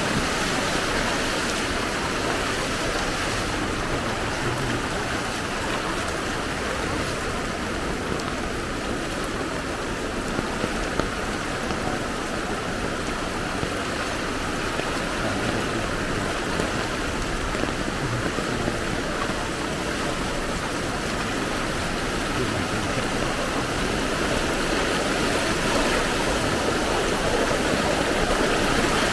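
Steady rush of fast-flowing floodwater through a street, mixed with rain, as a constant even noise. A few brief small knocks about ten seconds in.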